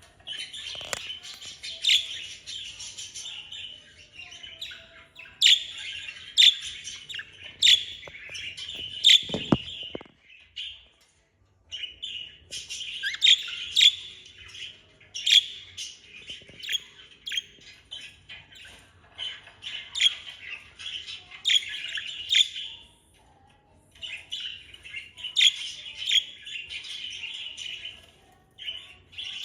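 Budgerigars warbling and chattering, with sharp high chirps in the stream of song; the chatter comes in bouts and stops twice for a second or two.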